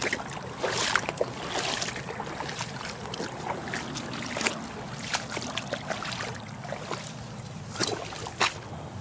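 Wading steps through a shallow creek: water sloshing and splashing around boots, with scattered sharp clicks and knocks.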